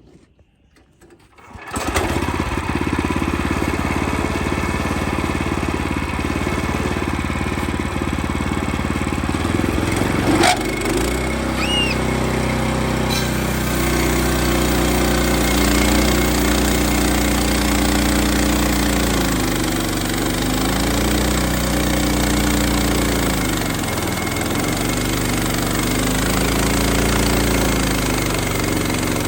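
Wood-Mizer LX25 sawmill's 9.5-horsepower engine starting about two seconds in and then running steadily. About ten seconds in there is a sharp click and the engine note shifts; after that its pitch dips and recovers several times.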